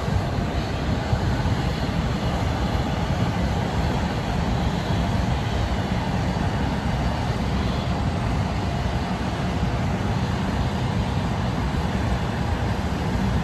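Airbus A330-300 jet engines running at idle as the airliner taxis onto its parking stand: a steady deep rumble with a faint thin whine over it.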